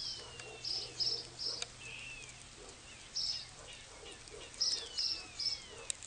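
Birds calling outdoors: short high chirps in groups of two or three, and a few thin whistles that slide down in pitch, over a faint steady low hum.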